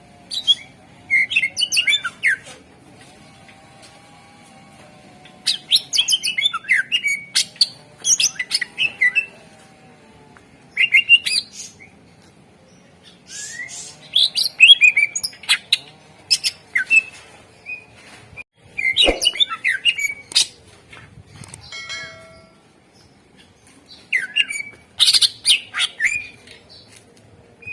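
Greater green leafbird (cucak ijo) singing in loud bursts of rapid whistled and chattering phrases, each a second or two long, with short pauses between them.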